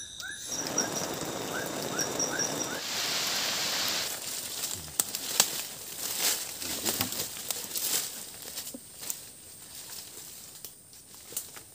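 Footsteps pushing through forest undergrowth: leaves rustling and twigs crackling and snapping, thinning out near the end. A short chirping call repeats several times a second during the first few seconds.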